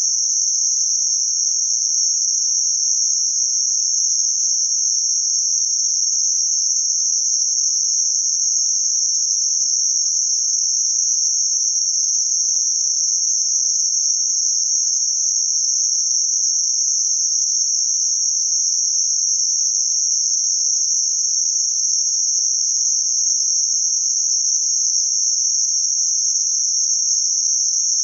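Synthetic band-limited noise centred around 6051 Hz: a steady, unvarying high-pitched hiss.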